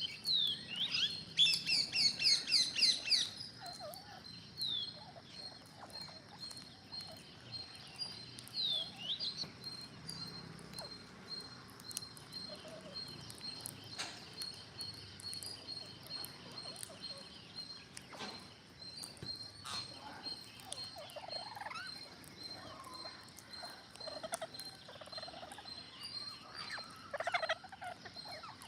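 Green parrots calling: a rapid run of high chattering squawks in the first few seconds, then scattered screeches and calls.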